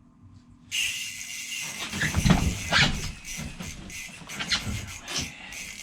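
A steady hiss starts suddenly about a second in, with scattered knocks and rustling of handling gear while a walleye is fought up through the ice hole.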